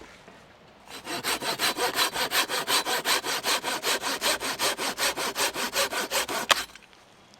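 Hand saw cutting through a log in quick, even strokes, about seven a second. It starts about a second in and stops suddenly near the end.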